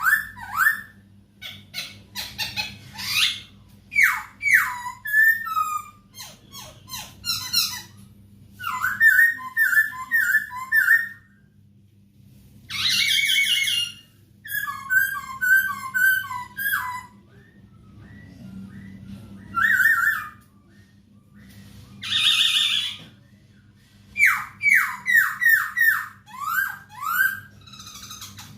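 Poksay hongkong laughingthrush singing in loud bursts: quick runs of falling whistled notes, high chattering trills and a couple of harsh rasping calls, with short pauses between phrases. A faint steady hum lies underneath.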